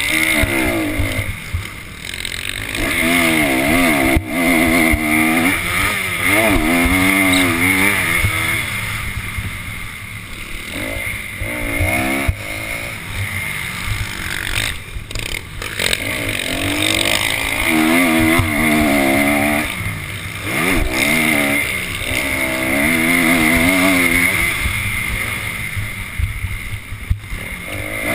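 Motocross bike engine, heard up close from a camera mounted on the bike, revving hard as the rider accelerates, shifts and rolls off around the track, the pitch climbing and dropping every couple of seconds.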